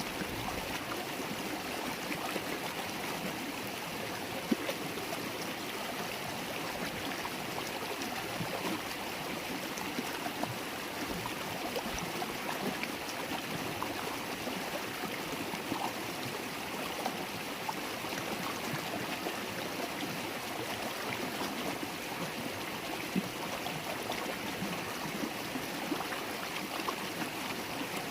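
River water babbling as it flows: a steady, even rush flecked with small splashes and gurgles.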